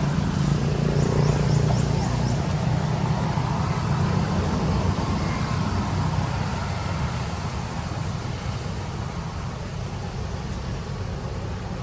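Motor vehicle engine running with a steady low hum that slowly fades away. A quick run of about six high chirps comes about a second in.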